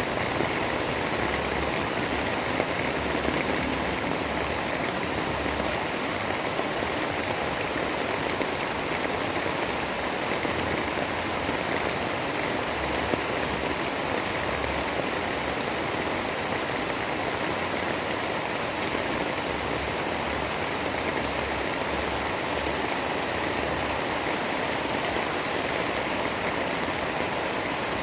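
Steady, even rain noise with no breaks or thunderclaps.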